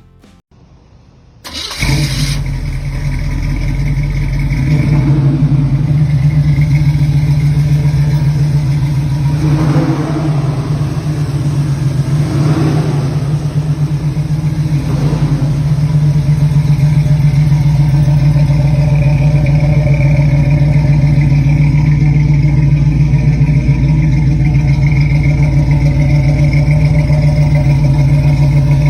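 A car engine is cranked and catches about two seconds in, then runs loud and steady, with a couple of brief swells in revs near the middle.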